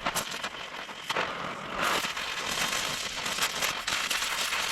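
Cutting tool grinding into a seized brake drum: a steady, harsh, crackling noise that grows louder about two seconds in.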